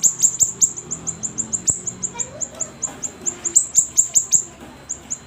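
Siri-siri bird singing vigorously: a rapid run of short, high, sharp down-slurred chirps, about six a second, with a brief break a little past the middle.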